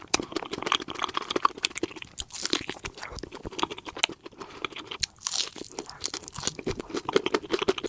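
Close-miked chewing and biting of a spicy chicken leg piece: a dense run of quick, irregular mouth clicks and crunches.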